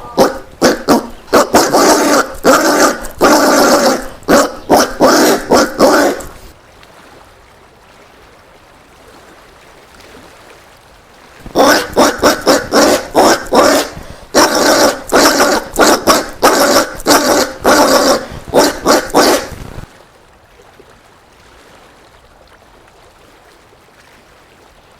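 Collared peccary (caititu) calls in rapid series of short, harsh notes, several a second. They come in two bouts of several seconds each, separated by a pause of about five seconds.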